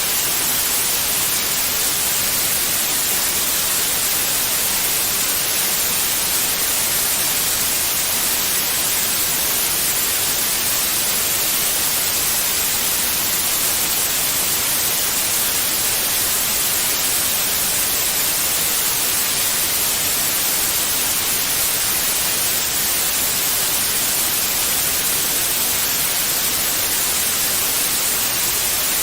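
Steady white noise: an even, unchanging hiss, strongest in the high frequencies, played as a soothing background for a baby.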